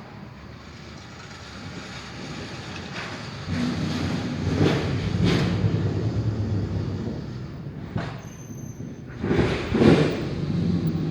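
Thunder rumbling, building up over a few seconds and then rolling on with several sharper cracks, the loudest about ten seconds in.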